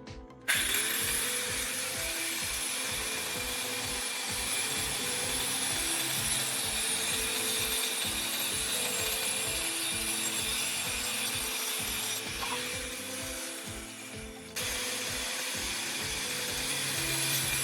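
A power tool running on a workpiece, cutting or sanding. It starts abruptly, eases off briefly near the end, then starts up again. Background music with a steady beat plays throughout.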